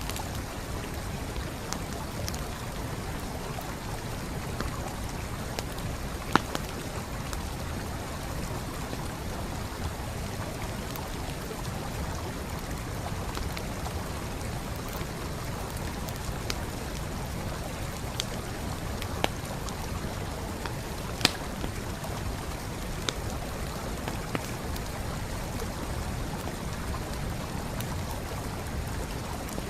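Steady rushing of a flowing stream with a wood campfire crackling over it, a few sharp pops standing out, the loudest about 6 and 21 seconds in.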